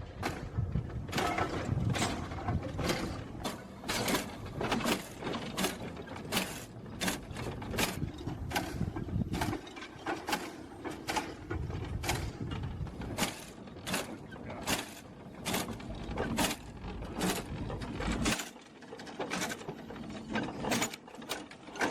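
Steam locomotive of Richard Trevithick's early design running, its steam exhaust and mechanism beating out a steady rhythm of about two sharp chuffs a second over a low rumble.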